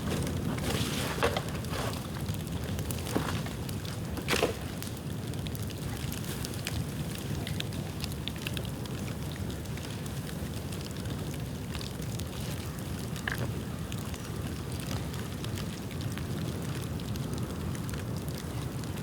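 Dry bamboo bonfire burning: a steady low rumble of flame with scattered crackling and a few sharp pops, most of them in the first five seconds.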